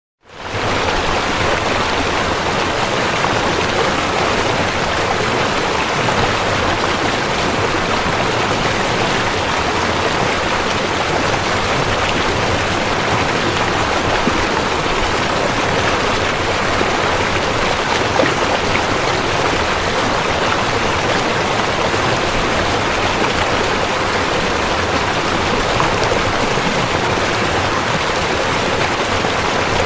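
Rushing river water, a steady, even rush. It drops out for a split second at the very start, then runs on unchanged.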